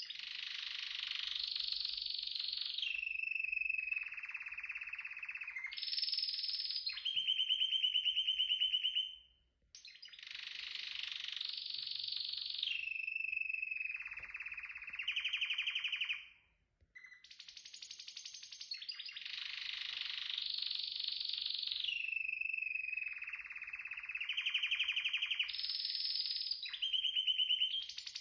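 Domestic canary singing: long songs made of rapid trills and rolls, each held on one pitch before switching to another. Three songs, with brief pauses about nine and sixteen seconds in.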